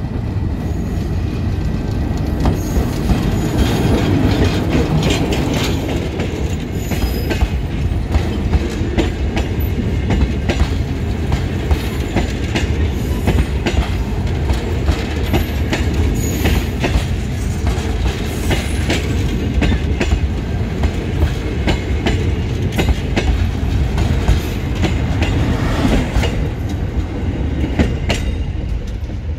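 The Q Train passing close by: a locomotive-hauled passenger train rumbling steadily, its wheels clicking over the rail joints with now and then a brief high wheel squeal. The sound eases off near the end as the last carriage goes by.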